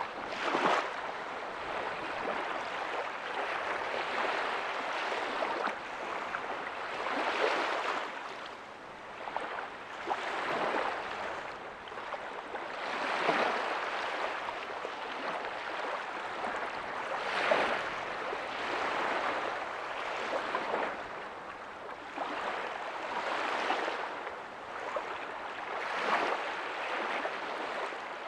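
Small ocean waves breaking softly on a beach, a steady wash of surf that swells with each breaker every few seconds and ebbs between them.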